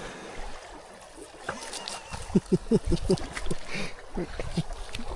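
Water gurgling and lapping, with a quick run of short gurgles about two seconds in.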